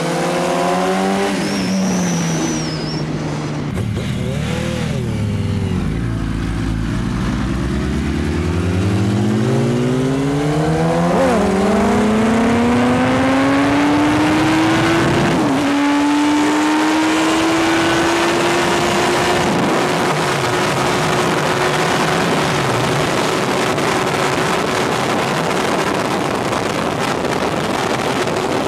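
Sport motorcycle engine at speed: the engine note drops as it slows, then climbs steadily under acceleration, changes gear about halfway through and holds a steady high pitch, over heavy wind rush on the microphone.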